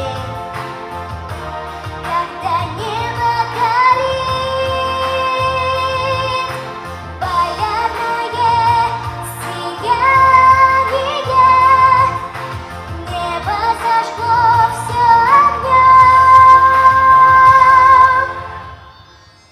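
A female singer performing a pop song with instrumental accompaniment, holding long high notes with vibrato. The song ends near the end, the music falling away on a final held note.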